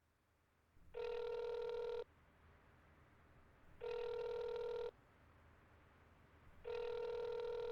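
Telephone ringing three times, each ring about a second long with a steady tone, for a call that goes unanswered.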